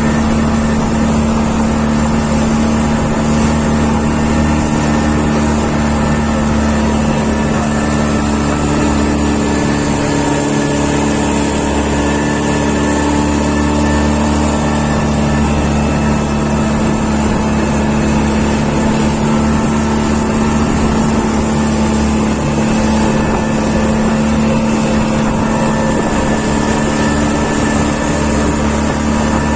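Engine running steadily: a loud, even drone with a constant low hum that does not change.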